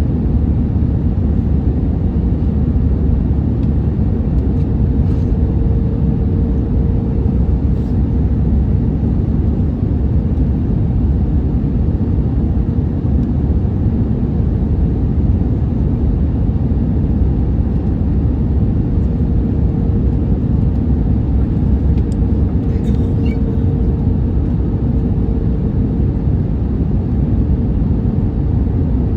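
Steady cabin noise of an Airbus A321neo airliner: a constant deep rumble from the engines and airflow with a steady hum over it. A few faint ticks come through now and then.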